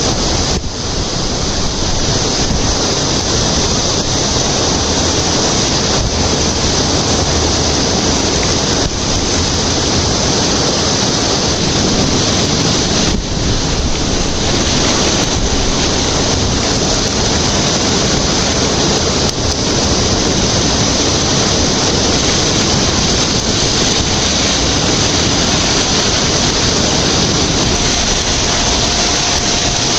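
Loud, steady rush of fast-flowing water swirling in a whirlpool.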